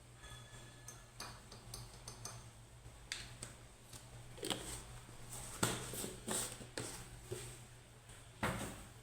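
Dishes and cutlery clinking and knocking while being washed by hand: a run of short, irregular clinks, a few of them ringing briefly, with the louder knocks in the second half.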